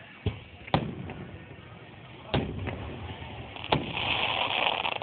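Aerial firework shells bursting with sharp bangs, four in all. The last bang, about three and a half seconds in, is followed by dense crackling from crackling stars.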